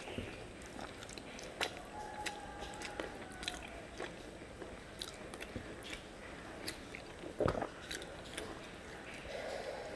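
A person chewing a mouthful of catfish and rice close to the microphone, with many small mouth clicks and one louder knock about seven and a half seconds in.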